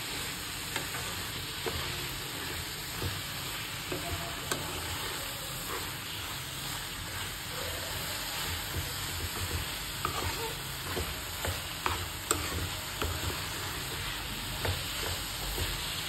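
Carrot halwa sizzling steadily in a pan on the stove, with a spoon scraping and stirring it now and then.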